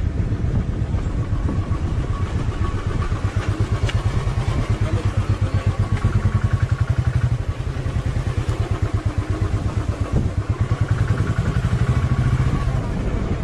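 Motorcycle engine running at low speed under light throttle, its exhaust beating in a rapid, even pulse that swells slightly twice.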